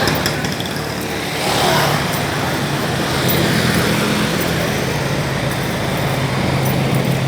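Street traffic: motor vehicle engines running close by, with a vehicle passing about a second and a half in.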